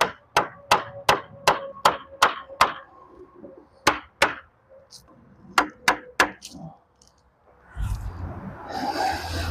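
Hammer knocking a snug-fitting wooden board into place: three runs of quick strikes, eight, then two, then three, about two and a half blows a second. Near the end a louder rumbling noise rises.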